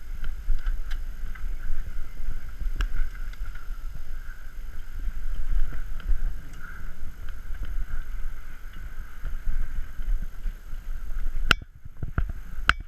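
A mountain bike being ridden over a trail, with wind rumbling on the microphone and scattered sharp rattles and clicks from the bike. The noise drops off abruptly near the end, leaving a few sharp clicks.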